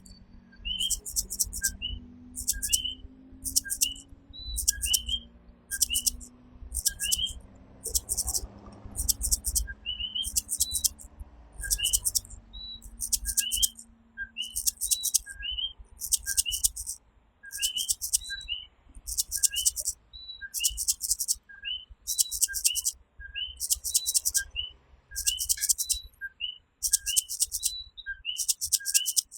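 Common coquí tree frogs calling, their two-note "co-quí" calls repeating from several frogs, each a short low note and then a higher upswept note. Behind them is a high, pulsed chirring that comes in bursts about once a second.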